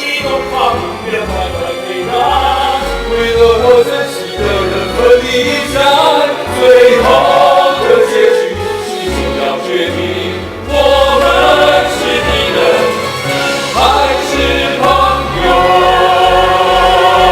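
Musical-theatre song: voices sung over an orchestral backing with a pulsing bass line.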